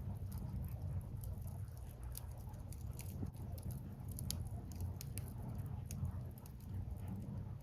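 Firewood burning in an open bonfire, crackling with many small sharp pops scattered irregularly, over a steady low rumble.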